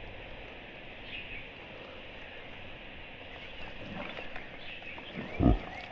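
Frogs and insects calling steadily around the water, with a single short low thump near the end.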